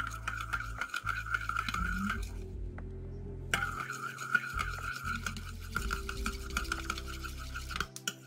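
A spoon stirring a chia pudding mixture in a container, scraping and clinking rapidly against its sides, with a short pause about two seconds in before the stirring resumes.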